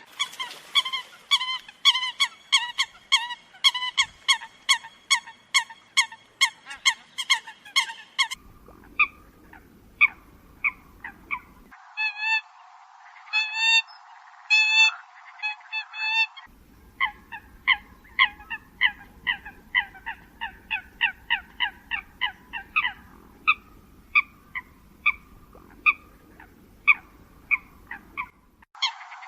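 Eurasian coot calls: rapid series of short, honking calls, about two or three a second, from a recording edited for use as a lure. The recording jumps abruptly between spliced takes, some with a low background rumble, and the pace and pitch of the calls shift from take to take.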